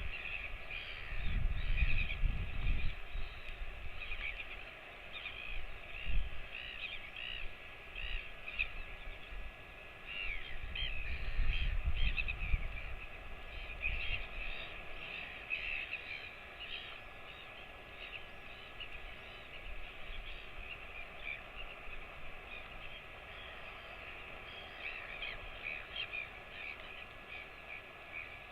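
Birds calling over and over with short chirps, over a steady hiss of rain. Low rumbles, like wind or handling on the microphone, come in the first few seconds and again about ten to thirteen seconds in.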